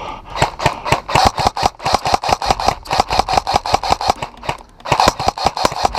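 Airsoft rifle firing long runs of rapid shots, a fast even rattle of clicks. It breaks off briefly a little past halfway, then starts again.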